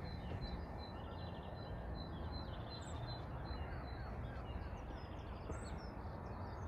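Birds chirping and calling, one repeating a short high note many times over in the first half, over a steady low background rumble.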